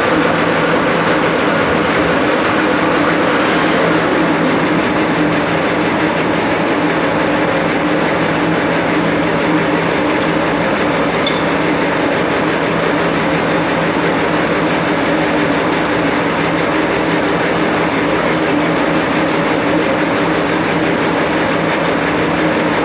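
A heavy machine running steadily, with a constant hum over an even mechanical noise. It cuts off abruptly at the end.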